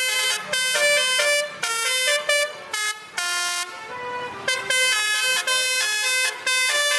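Truck's basuri (telolet) multi-tone air horn playing a fast melody of short stepped notes, with a brief break in the middle.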